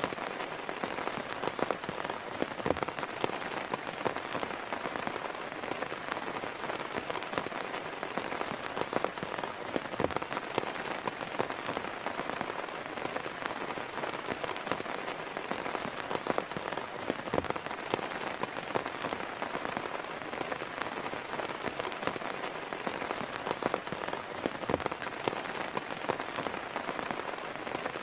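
Heavy rain falling steadily: a dense, even patter with a louder single drop striking every few seconds.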